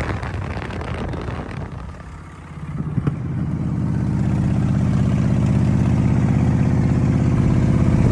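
Motorcycle engine running. It falls away about two seconds in, then picks back up and settles into a steady, evenly pulsing run.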